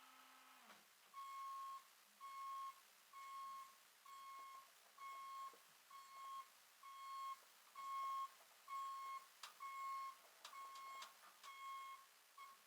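A steady hum cuts off just under a second in. Then an electronic warning beep repeats about once a second, a dozen times, with a few faint clicks near the end.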